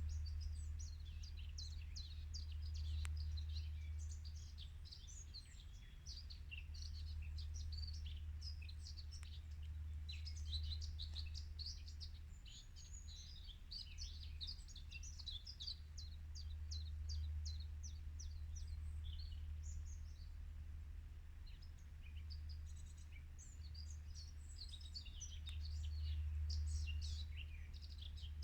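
Birds chirping and singing in quick, dense runs of high notes without let-up, over a steady low rumble.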